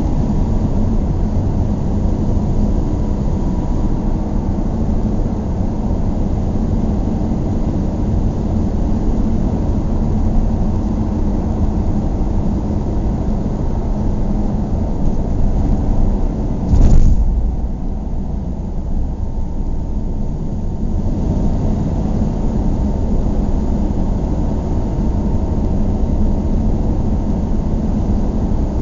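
Steady low road and engine noise of a moving vehicle, with one brief thump a little past the middle.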